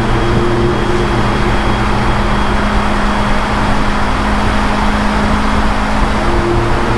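Motorcycle engine running at a steady highway cruise, a constant hum under heavy wind rush.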